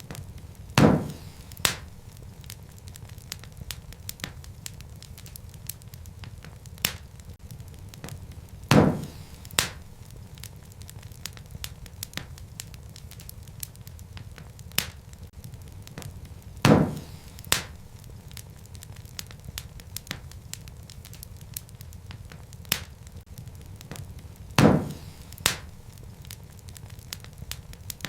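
Wood fire in a fireplace crackling, with scattered small snaps over a low steady rumble. Four times, about every eight seconds, a louder pop is followed quickly by a second one.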